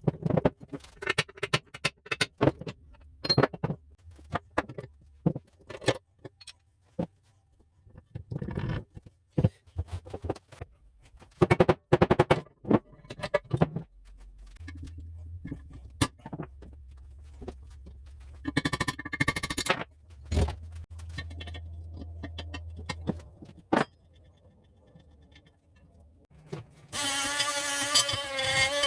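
Metal tools and parts clinking, rattling and scraping in irregular bursts, as in hands-on mechanical work at a bench. A low hum runs through the middle, and a buzzing electric motor, like a small power tool, starts near the end.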